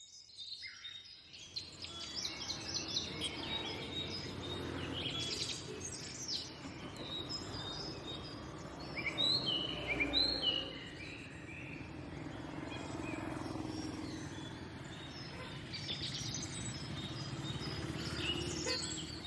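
Several birds chirping and calling over a steady outdoor background hum. The sound fades in from silence at the start.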